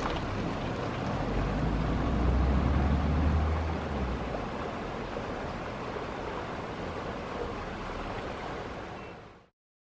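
Roar of a landing Boeing 737-900ER's jet engines, a steady rushing noise with a low rumble that swells about a second and a half in and eases off after about four seconds. The sound cuts off suddenly near the end.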